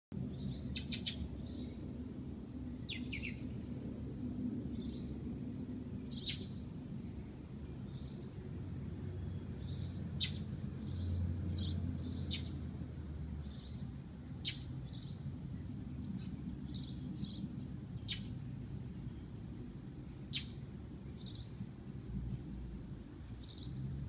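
Small birds in the trees chirping: short high calls repeated about once a second, with a sharp, very brief tick now and then, over a steady low background rumble.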